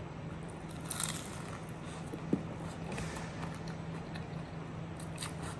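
Close-up biting and chewing of a fried pastel, a pastry filled with rice vermicelli, with short crackles about a second in, around three seconds and near the end. A faint steady hum runs underneath.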